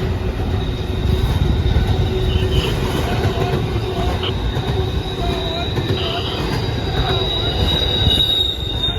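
CSX intermodal freight train rolling past with a continuous low rumble and a steady high-pitched wheel squeal, which grows louder near the end, along with a few short squeaks.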